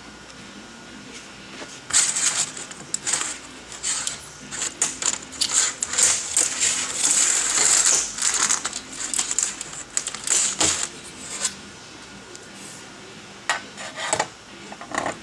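Saw chain and a long chainsaw bar being handled and fitted onto a Homelite 750 powerhead, with the engine not running: irregular metallic rattling, clinking and scraping. The rattling is busiest in the middle and is followed by a few sharp clicks near the end.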